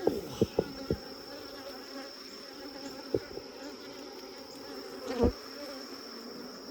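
Honey bees buzzing steadily around an open hive, a defensive colony stirred up by the inspection. Several sharp knocks come in the first second, then single knocks about three and five seconds in.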